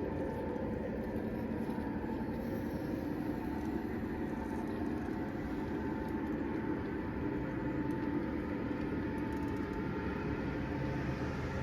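Model train running steadily on its track: a continuous rumble with a motor hum and fine rapid clicking of the wheels.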